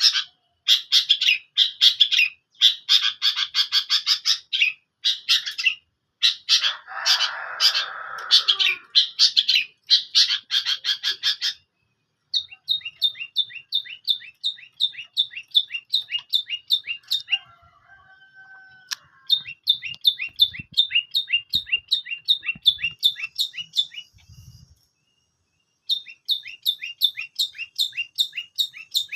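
Long-tailed shrike (cendet) singing hard. A loud, dense, fast chattering song fills the first dozen seconds, with a harsh rasping call about seven seconds in. Then come bouts of rapid, evenly repeated down-slurred notes, broken by short pauses.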